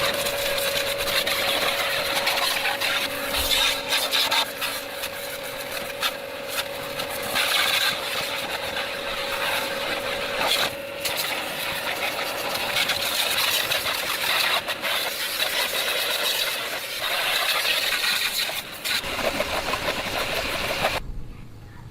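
A small motor running steadily under rough scraping and clattering, with many sharp clicks, stopping suddenly near the end.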